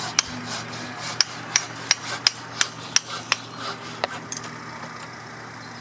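Hammer blows in a steady rhythm, about three a second, each with a short ringing top, stopping about four seconds in, during reinforced concrete work on the canal wall.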